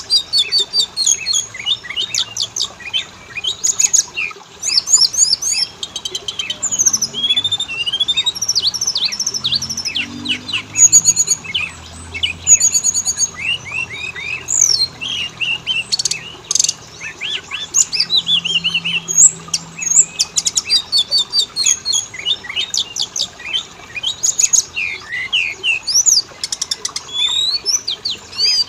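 Oriental magpie-robin (kacer) song: a continuous, varied run of clear whistles, chirps and rapid trills, used as a lure recording to prompt caged magpie-robins to sing.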